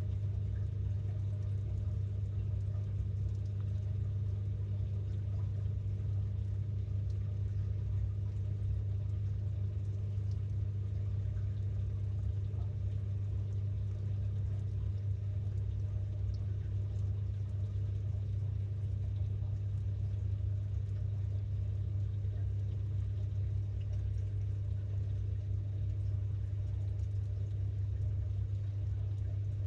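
Samsung 6.5 kg top-load washing machine running mid-cycle, heard from a camera inside its drum: a steady low hum that does not change.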